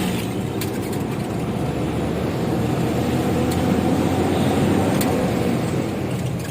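Isuzu 6HK1 inline-six diesel engine of an FTR truck running under way, a steady low drone that grows a little louder about halfway through.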